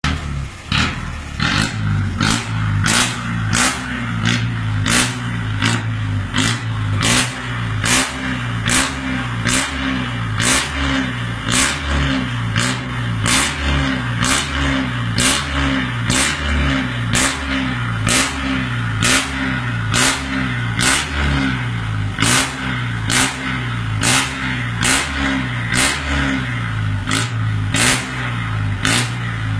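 Truck engine revved through its loud exhaust in quick repeated throttle blips, about one and a half to two a second, each with a sharp crack.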